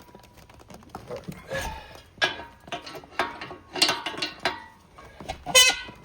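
Metal parts of a propane line connector being handled: a series of irregular sharp clinks and knocks, some with a brief metallic ring, the loudest near the end.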